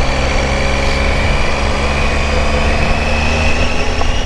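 Motorcycle engine running at a steady cruise while riding, with a low wind rumble on the microphone.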